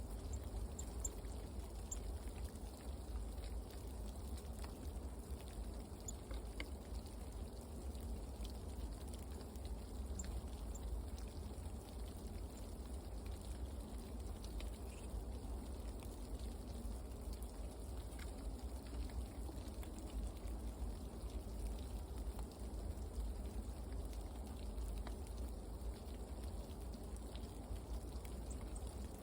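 Steady low rumble and noise of outdoor ambience, with a few faint scattered ticks.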